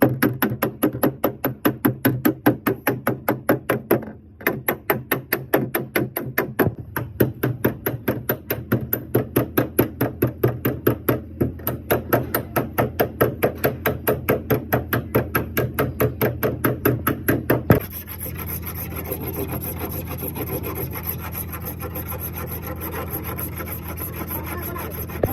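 Quick, even rubbing strokes, about four a second. From about eighteen seconds in they give way to a steadier, continuous rubbing noise.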